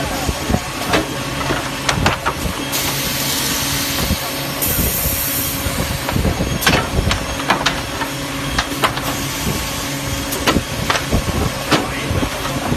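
Multi-head wood drilling machine running: a steady motor hum with irregular knocks and clatter, and a long burst of compressed-air hiss a few seconds in.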